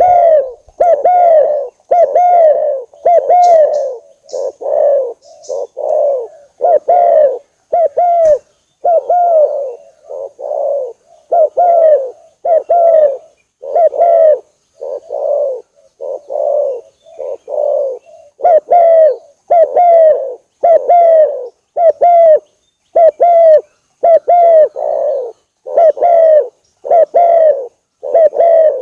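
Spotted dove cooing over and over, about one short coo a second, each note curving down in pitch, with a few short pauses. It is a contest-grade bird's call, used as a lure to draw wild spotted doves to the sound.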